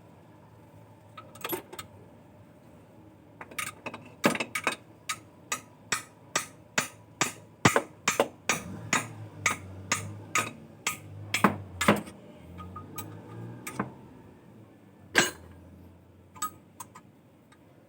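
A run of sharp knocks, about two or three a second, from a few seconds in until about twelve seconds in, then a few scattered knocks, over a faint low hum.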